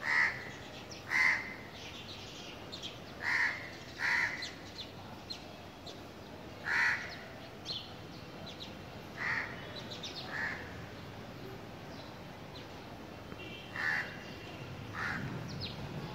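Outdoor birds calling: about nine short, harsh calls at irregular intervals, with fainter high chirps between them.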